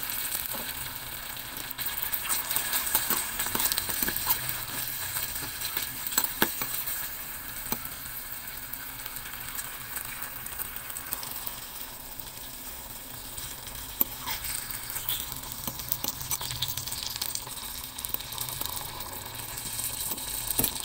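Hot oil sizzling and crackling in a tiny stainless-steel bowl as sliced ginger, chili and garlic fry, with scattered clicks of a small utensil against the bowl as a whole squid is added and stirred in.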